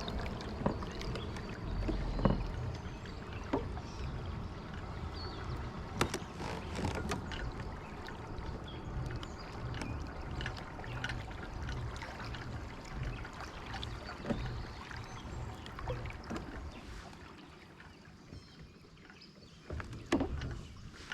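Kayak out on the water: a steady low rumble with lapping water and irregular knocks and clicks against the hull, quieter for a few seconds near the end.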